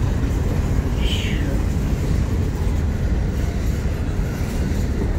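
Freight train rumbling past, a steady low rumble with a brief high falling squeal about a second in.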